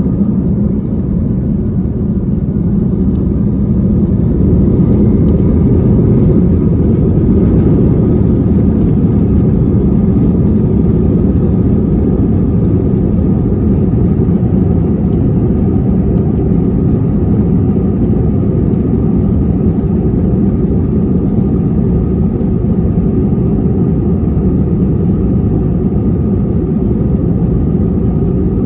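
Steady loud rumble of an Airbus A321's engines and airflow heard inside the passenger cabin, growing a little louder about four seconds in and then holding level.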